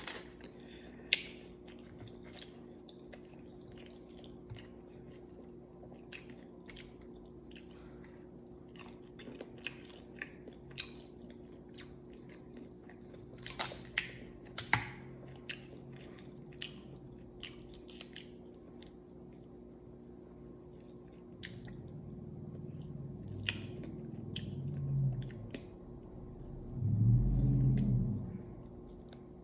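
Close-up chewing and biting of seafood boil, mostly shrimp, with sharp wet mouth clicks and smacks scattered throughout. Near the end a low hum swells twice, the second time louder.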